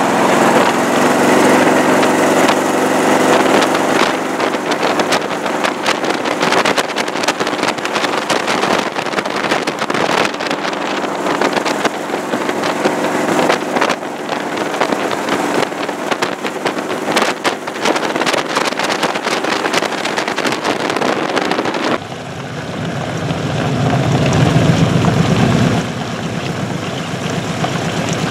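Open hot rod's V8 engine running at highway cruising speed, with heavy wind buffeting on the microphone. About three quarters of the way through it changes to a deeper engine note that swells up and falls back.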